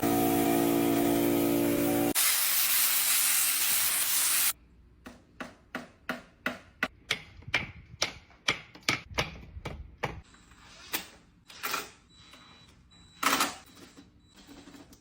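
Furniture repair work: a power tool's motor whirs for about two seconds, a loud hiss follows for about two more and cuts off suddenly, then a string of sharp clicks and taps, about two or three a second, thins out toward the end.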